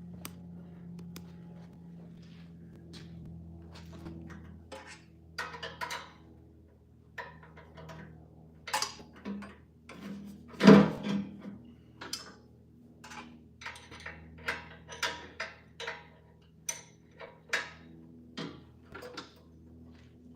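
Metal hand tools and parts clinking and knocking irregularly, with one loud knock about halfway through and quicker clinks after it, over a steady low hum.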